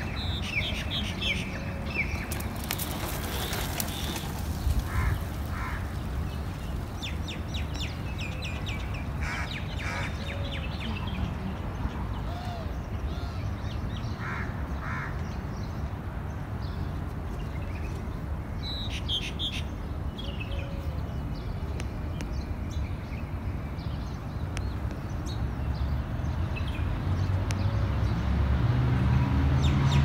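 Birds chirping and calling: scattered short chirps and quick runs of repeated notes, over a steady low rumble that grows louder near the end.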